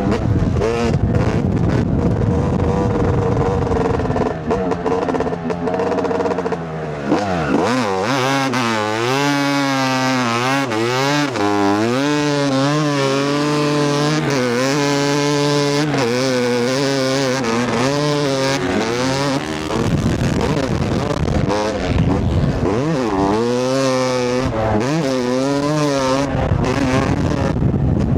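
Yamaha YZ250 two-stroke dirt bike engine under hard throttle, its pitch repeatedly climbing and dropping as it is wound out and shifted or backed off.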